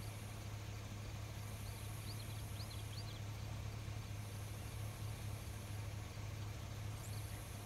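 A night-time insect chorus, a high shrill trill swelling in pulses about a second and a half long with short pauses, with a few short high chirps, over a steady low hum.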